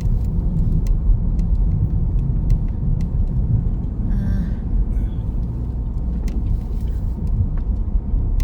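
Steady low rumble of a car driving, engine and road noise heard from inside the cabin, with scattered faint clicks and a brief hiss about four seconds in.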